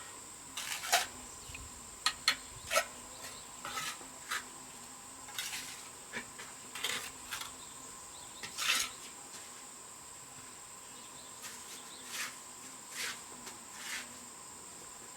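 Irregular sharp clinks and short scrapes of a metal tool on brick and mortar, the loudest near the start and about nine seconds in. A steady insect chirring runs underneath throughout.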